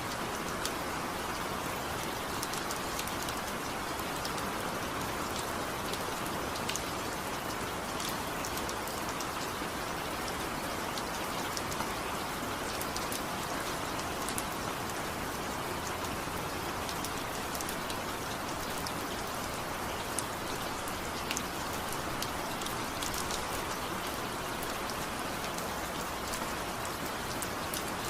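Steady rain falling, a constant hiss with scattered sharp drop ticks, and no thunder.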